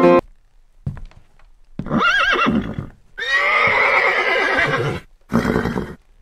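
Horse neighing: a short wavering whinny about two seconds in, then a longer neigh of about two seconds whose pitch falls away, and a brief short call near the end.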